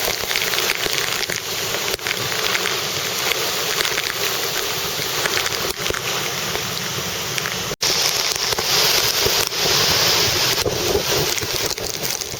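Wind and heavy rain of a severe thunderstorm, a loud, steady rushing noise. It breaks off for an instant about eight seconds in and comes back a little louder and hissier.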